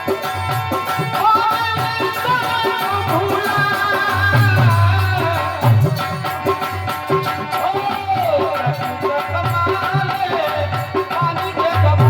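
Indian folk music: a winding melody carried over a steady hand-drum beat, with percussion throughout.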